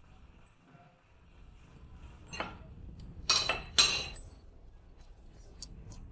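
Hard objects clinking together: three sharp clinks between about two and four seconds in, then a couple of faint ticks near the end.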